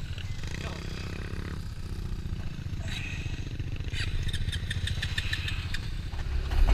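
Quad bike (ATV) engine running, a low steady rumble.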